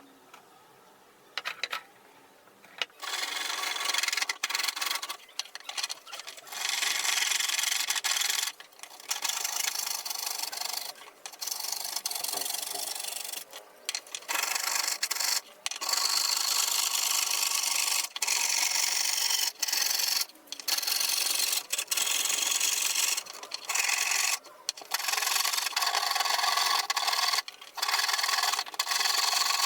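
PVC pipe being cut along a marked line: a rasping, saw-like cutting sound that starts about three seconds in and goes on in runs of one to three seconds with short breaks between.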